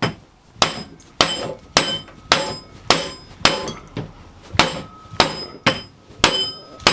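Steady hammer blows driving a tight-fitting tapered metal washer into its tapered seat, about two blows a second. Each blow gives a sharp strike with a short metallic ring.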